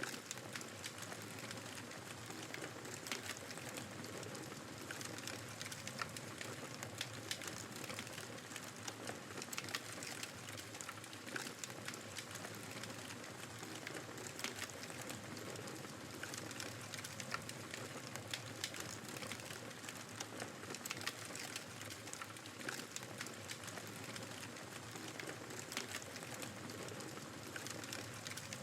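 Wood fire crackling, with frequent small pops and clicks over a steady hiss of blizzard wind.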